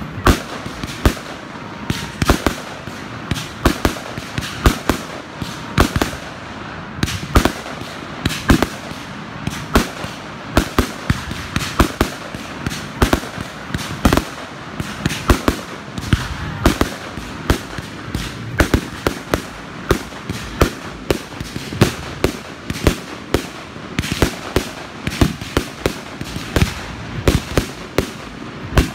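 Aerial fireworks shells bursting overhead in quick, irregular succession: many sharp bangs, often several a second, over a steady noisy background.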